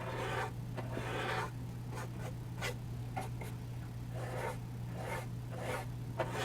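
A small flat paint brush sweeping over charcoal on textured charcoal paper, blending it in one direction: a run of soft, repeated swishes, the first one longer. A steady low hum sits underneath.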